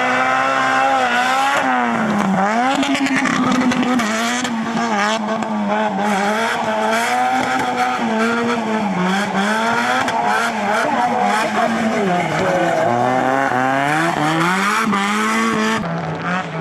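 Nissan 180SX's turbocharged SR20 four-cylinder engine revving hard under drift throttle, its pitch climbing and dropping again and again, with rapid crackles through the revs.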